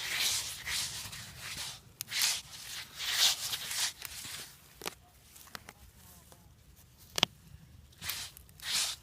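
Repeated rough scraping and rustling strokes, each about half a second long, with a quieter stretch in the middle broken by a couple of sharp clicks.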